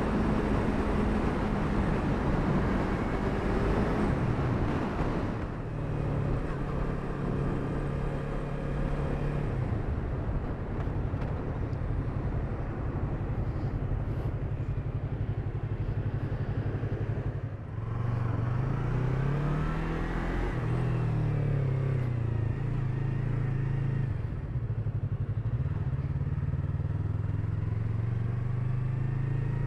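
Yamaha MT-03's parallel-twin engine running under way, with wind rushing over the microphone for the first five seconds or so. The engine then settles to a steady low hum at lower speed, and a little past halfway its revs rise and fall a few times as it pulls through the gears, before running steadily again.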